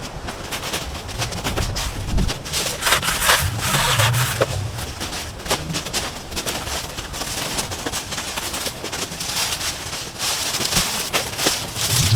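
Dry brush and branches rustling, crackling and snapping as they are pulled and handled, in an irregular run of sharp cracks.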